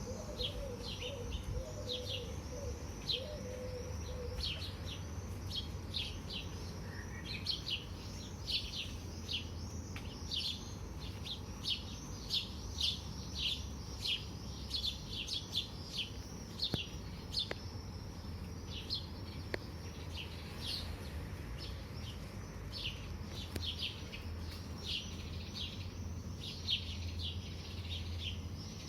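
Songbirds chirping in a morning chorus: many short, high, falling chirps, several a second and overlapping, over a steady low rumble.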